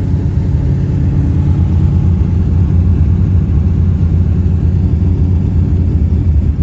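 1966 Plymouth Satellite's 426 Hemi V8, fitted with a custom carburetor, running fairly steadily under way with a deep low exhaust note.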